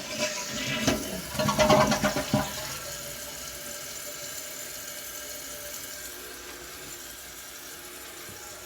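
Kohler Cimarron toilet flushing: water rushes and gurgles loudly through the bowl for the first two and a half seconds. It then settles into the steady hiss of the tank refilling.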